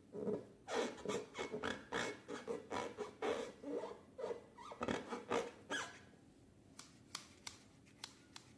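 Slime being mixed and squished by hand: a quick, irregular run of wet squelches and sticky clicks for about six seconds, then a few separate clicks near the end.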